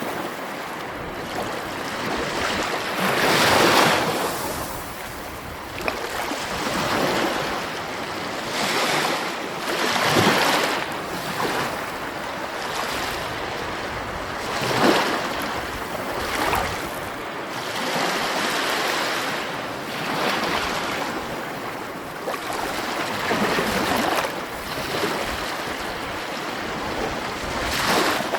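Sea waves breaking and washing in, a continuous rush of surf that swells with each wave every few seconds.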